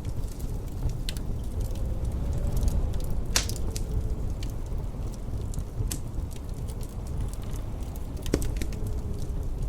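Wood fire crackling in a fireplace: scattered small pops, a louder pop about three seconds in and another near the end, over a steady low rumble of wind.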